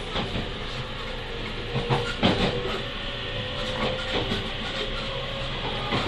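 Series E653 electric multiple unit running, heard from inside the car: steady wheel-and-rail running noise with a faint steady hum, and a couple of rail-joint clacks about two seconds in.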